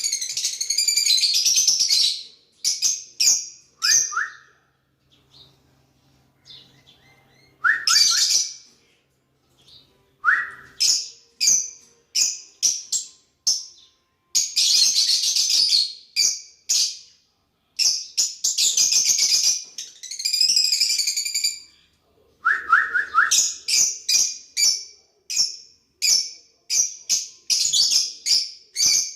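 Pet lovebirds chattering and chirping in rapid, shrill bursts, with short falling calls mixed in and a few brief pauses.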